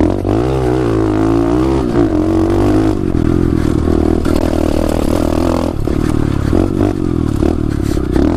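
2016 SSR 125 pit bike's single-cylinder four-stroke engine running under throttle, its pitch rising and falling repeatedly as the throttle is opened and closed. Clattering knocks come in the second half.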